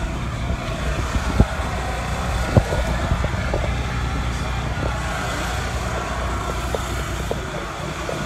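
Steady low rumble of running vehicles, with a few sharp clicks, the loudest about a second and a half and two and a half seconds in.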